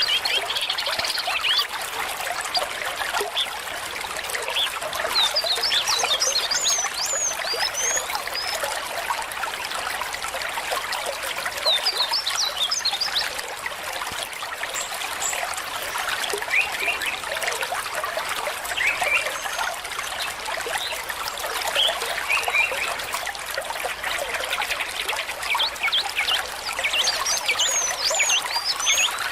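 A small stream trickling and babbling steadily, with a few bursts of quick, high chirps over it.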